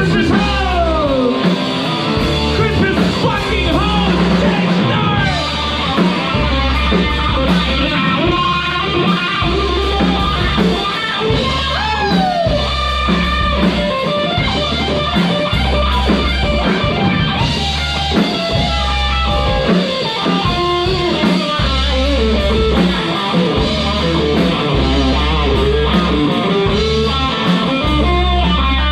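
Live rock band playing an instrumental break: an electric guitar lead with sliding, bending notes over bass guitar and a drum kit keeping a steady beat.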